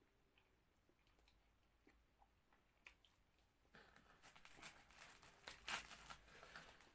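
Near silence, then close crackling and rustling starting about four seconds in, with scattered sharp clicks.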